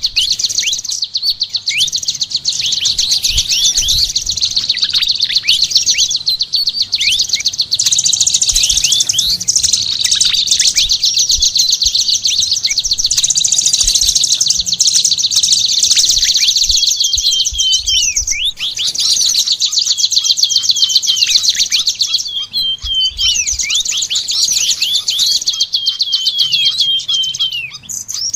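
Songbird singing continuously: a fast, high-pitched chattering trill with many short downward-slurred whistles mixed in.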